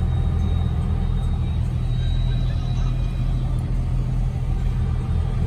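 A vehicle engine running at a steady speed: a low, even rumble that does not change in pitch.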